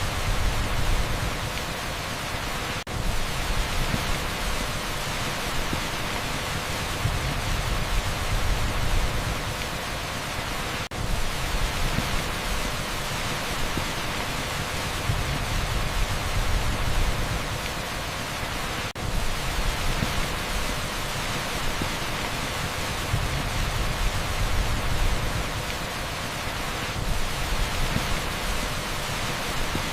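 Torrential rain pouring on an asphalt street, a dense, steady hiss across the whole range, with a brief sharp dip in level about every eight seconds.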